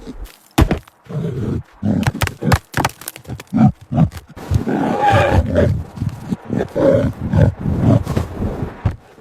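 Tiger growling and roaring in short, irregular bursts, with sharp knocks and clicks in between.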